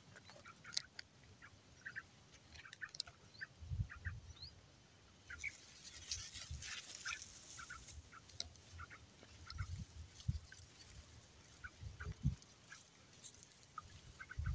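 Faint, scattered short bird chirps from the grass and shrubs, with a burst of rustling through the vegetation about six seconds in and a few low thumps.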